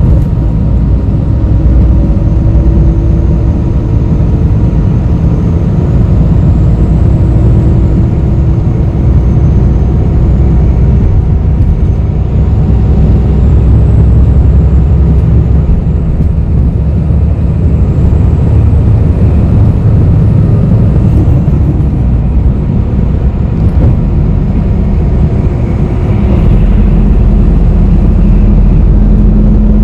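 Inside a moving bus: a steady, loud low rumble of engine and road noise. A faint whine rises slowly in pitch over the first dozen seconds, and the low drone grows stronger near the end.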